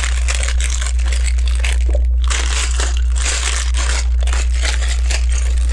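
Thin plastic LEGO parts bags being crinkled and rummaged through in an irregular, continuous crackle, over a steady low hum.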